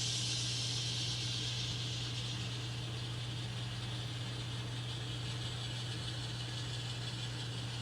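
Sound decoder of an N scale model diesel locomotive playing a steady low engine drone, with a hiss that starts just before and slowly fades.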